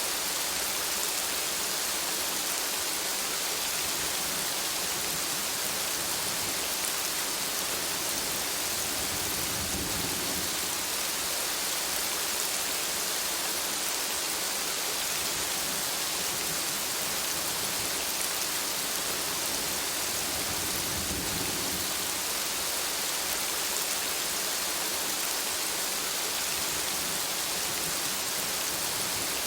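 Steady rain falling, an even hiss of many drops. Two soft low rumbles swell briefly, about a third of the way in and again about two-thirds through.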